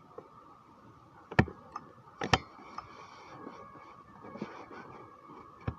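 A few sharp clicks and knocks over a faint steady hum, the loudest coming about a second and a half in, just after two seconds, and again near the end.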